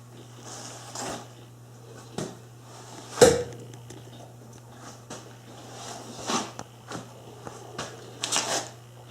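Scattered light clicks and knocks from handling, the loudest about three seconds in, over a steady low hum.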